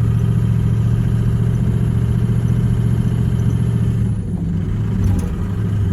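Ford 6.0-litre diesel pickup's engine running steadily under way in snow, a low, even hum. About four seconds in, the engine note drops lower.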